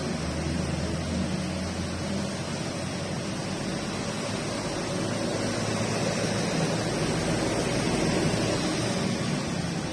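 Steady rain falling, an even hiss, with a low hum underneath.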